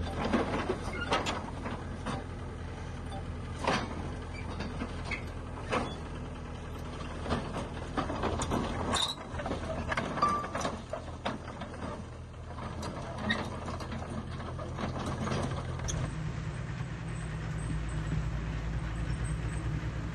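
Diesel engine of heavy earthmoving equipment running steadily, with frequent sharp metallic clanks and knocks. The engine note deepens and grows louder about sixteen seconds in.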